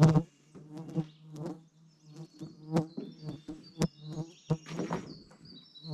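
Flying insects buzzing close around the microphone, a steady low drone that swarms near the camper, with sharp clicks and knocks scattered through it.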